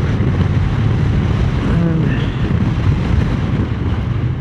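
Wind rushing over the microphone, with a Triumph Speed Twin 900's parallel-twin engine running steadily underneath at road speed.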